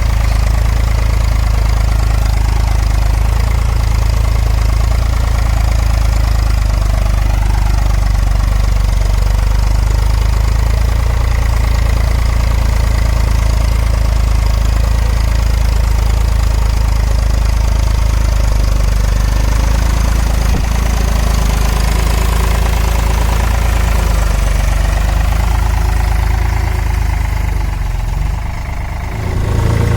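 Eicher 5032 tractor's diesel engine running steadily, its low drone dipping briefly near the end before picking up again.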